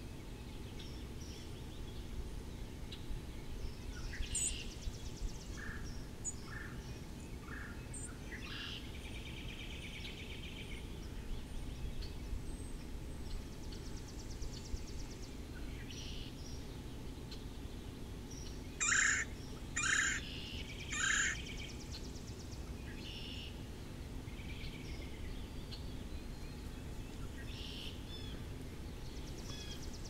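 Wild backyard songbirds calling and singing: scattered short chirps and a few trills, with three loud calls about a second apart about two-thirds of the way in, over a steady low background noise.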